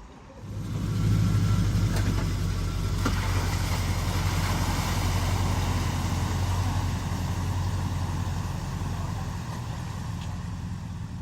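A vehicle's engine running steadily as it drives through deep ford water, with a steady rush of water over it. It comes in abruptly about half a second in and eases off slightly in the second half.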